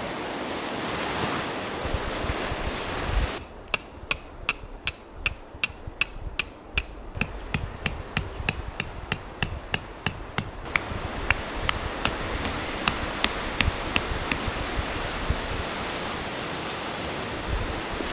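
A hammer driving a metal tent peg: a run of sharp, ringing blows, about three a second, starting a few seconds in and stopping about four seconds before the end, over a steady rushing wind noise.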